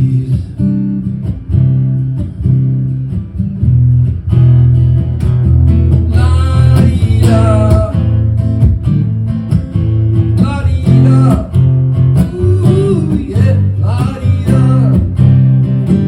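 Live acoustic guitar strumming chords with a voice singing long wordless lines over it, as the song winds down to its close near the end.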